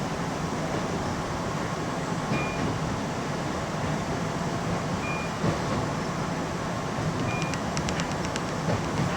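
Keihan electric local train running, heard from on board: a steady rumble of wheels and motors on the track. A short high beep repeats about every two and a half seconds, and a quick run of light clicks comes near the end.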